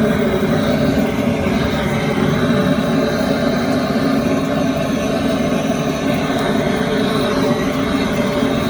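Wood fire burning in the firebox under a cast-iron cauldron: a loud, steady rush of noise, with the dry firewood catching well.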